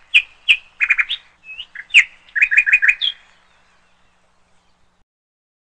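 A quick run of short bird chirps and tweets, bunched in the first three seconds and fading out soon after.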